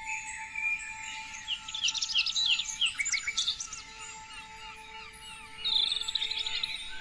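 Several songbirds chirping and singing at once, a busy chorus of quick high notes and trills, thickest in the middle and again near the end, with a faint steady whistle-like tone beneath.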